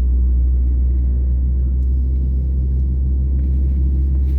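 Steady low rumble of an Airbus A320neo heard from inside the passenger cabin, with its engines running.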